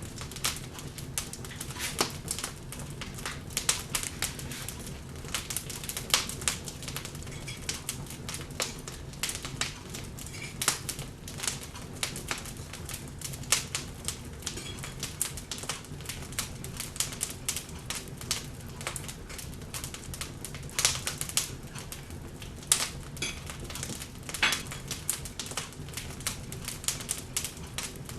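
Log fire in a fireplace crackling, with irregular sharp pops and snaps several times a second and a few louder cracks, over a low steady hum.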